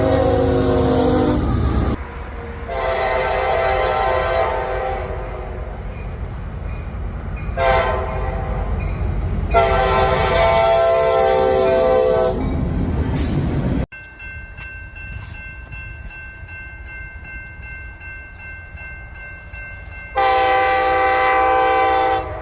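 Locomotive air horns sounding several loud chorded blasts of different lengths, with rail rumble underneath. Partway through the horn gives way to the quieter steady ringing of a railroad crossing bell, and near the end one more horn blast sounds for about two seconds.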